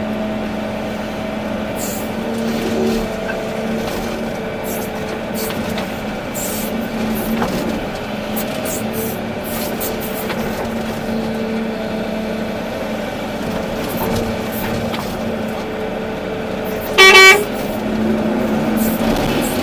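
Large excavator's diesel engine running steadily, with a short, loud horn blast near the end.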